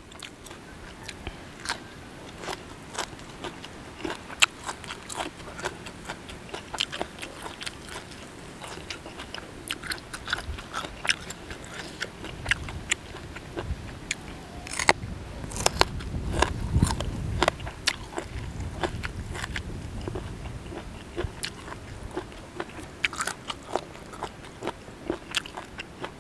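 Close-up chewing of crunchy boiled golden apple snail meat in a spicy koi salad: a steady run of crisp crunches and wet mouth clicks, fuller and heavier about halfway through.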